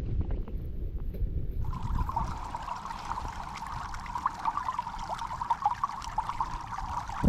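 Rain pattering and crackling close to the microphone over a low rumble, starting abruptly about a second and a half in.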